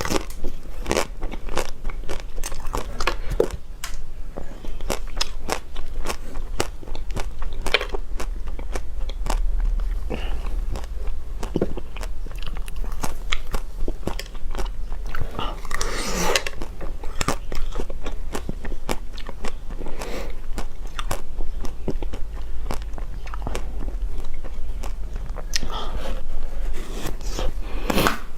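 Close-miked eating sounds: crunchy biting and chewing, with frequent sharp clicks and crackles and a couple of denser crunching spells.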